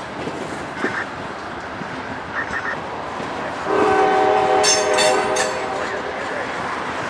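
Freight train cars rolling past with a steady rumble and clatter of wheels on rail. About four seconds in, a locomotive horn sounds for about two seconds over it.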